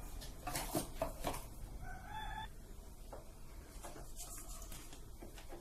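A few clicks in the first second and a half, then a bird calls: one held call of about half a second near the middle and a fainter call about two seconds later.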